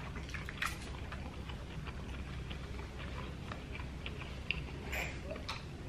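Soft chewing and mouth sounds: a few faint, scattered clicks over a steady low hum of room tone.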